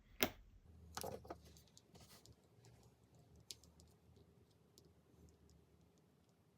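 Small clicks and taps of iPod nano parts being handled and pressed together as a piece is clicked into place: one sharp click right at the start, a few more about a second in, then only faint scattered ticks.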